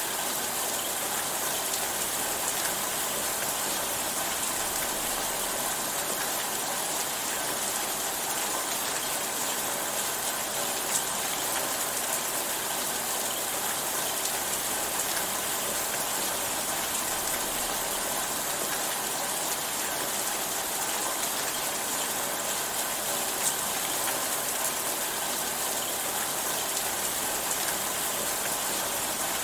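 Steady rainfall: an even hiss of rain with a few faint drop ticks.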